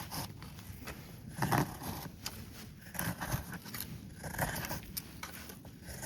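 Irregular rustling, scraping and small knocks of objects being handled by hand.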